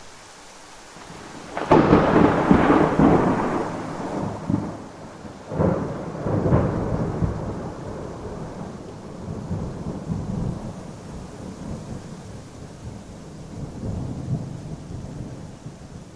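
Thunderstorm: rain falling steadily with thunder. A sharp thunderclap about two seconds in rumbles away over a few seconds. A second clap follows about four seconds later, and low rolling rumbles go on under the rain.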